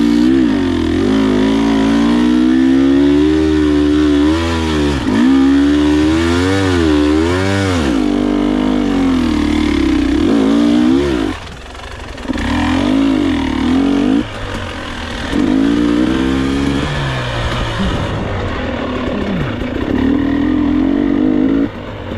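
Enduro motorcycle engine under riding load, revving up and down over and over with the throttle, its note rising and falling in waves; it briefly falls away a few times, near the middle and at the end.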